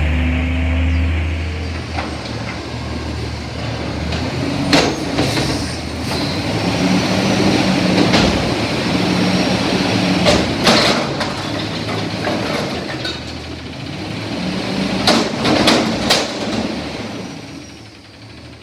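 CNG front-loader garbage truck at work: engine and hydraulics running with a whine that comes and goes, and several loud metal clanks and bangs spread through.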